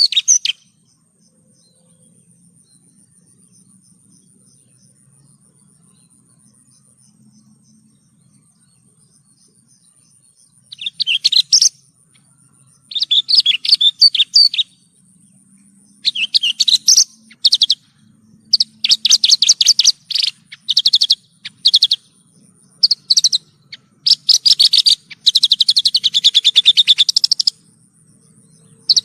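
Horsfield's bush lark (branjangan) singing in bursts of rapid, high notes. After about ten seconds with no song, the phrases come closer together and grow longer toward the end.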